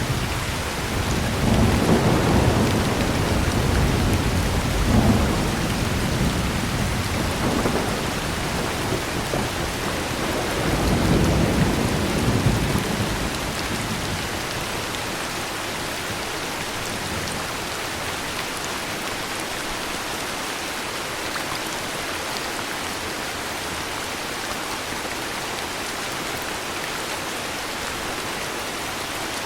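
Heavy rain falling steadily, with two long rolls of thunder in the first half, then rain alone.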